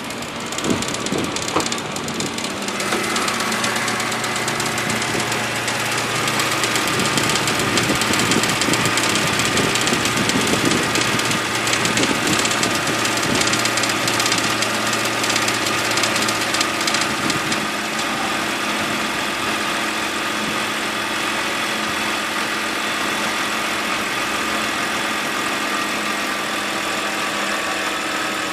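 BMW N52 inline-six idling with a loud rattle like marbles shaking in a can, over the engine's normal lifter ticking. About two-thirds of the way through, the rattle stops and the idle settles to its normal steady sound. The rattle was a loose electrical connector in front of the radiator fan hitting the spinning fan.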